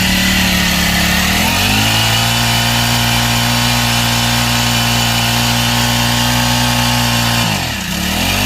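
Four-stroke petrol engine of a SAMSON SAM-PT portable spray machine running fast, then slowing to a lower steady speed about a second and a half in. Near the end its speed dips and picks up again.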